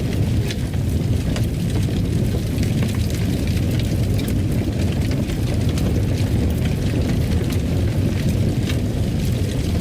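Wood fire crackling: frequent sharp snaps and pops over a steady low rumble.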